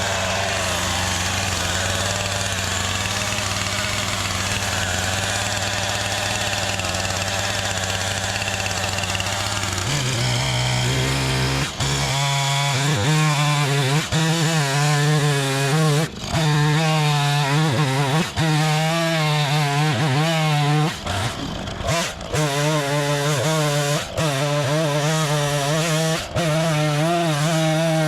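Wood chipper's gasoline engine running steadily. About ten seconds in its note changes, and from then on its pitch wavers, with short dips every couple of seconds.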